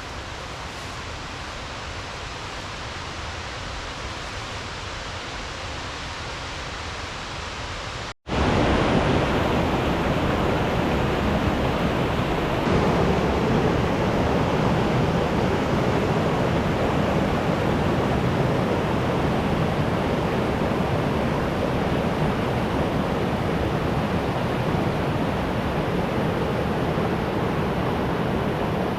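Steady rush of a waterfall. About eight seconds in the sound drops out for an instant and comes back louder and fuller.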